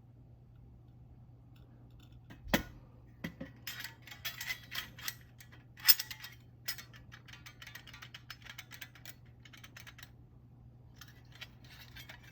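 Small metal parts clinking and rattling as they are handled, with two sharper knocks about two and a half and six seconds in, over a low steady hum.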